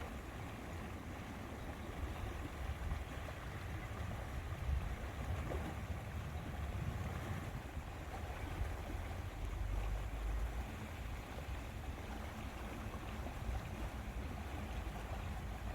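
Outdoor lakeside ambience: wind buffeting the microphone in uneven low rumbling gusts over a steady soft wash of water at the lake.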